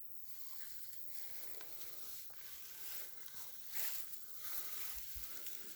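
Soft, irregular rustling with small crackles, louder in a few spots around the middle.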